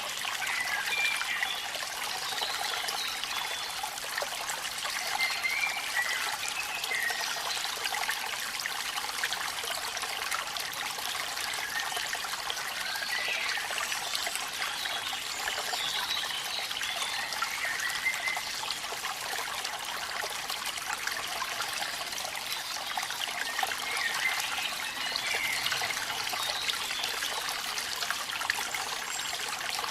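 Water of a small waterfall splashing and trickling steadily, with short bright gurgles scattered through.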